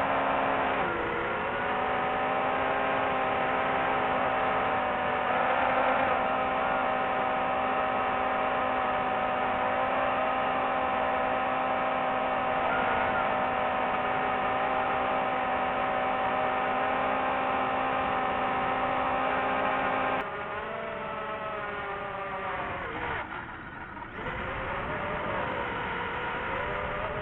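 Steady motor hum made of several held tones, wavering slightly at times. It changes character abruptly about twenty seconds in, and is quieter from there on.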